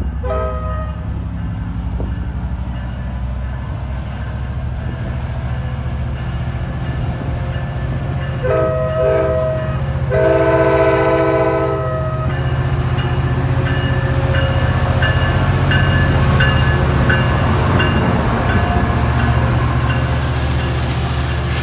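Diesel train rumbling past with its multi-tone air horn sounding: a short blast at the start, two short blasts about eight seconds in, then a longer blast. Wheel and rail noise builds as it rolls by.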